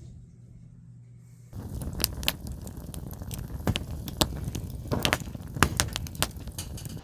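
Irregular crackling with sharp pops, starting suddenly about a second and a half in after a low hum, from the camp cookout's fire or grill.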